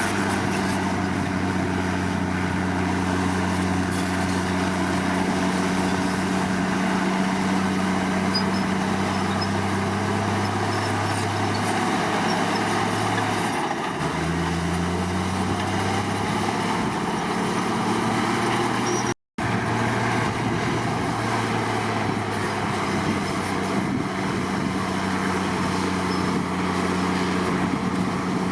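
Komatsu D53 bulldozer's diesel engine running under load at steady revs. The pitch sags briefly a little before halfway and then rises again, and the sound drops out for an instant about two-thirds of the way through.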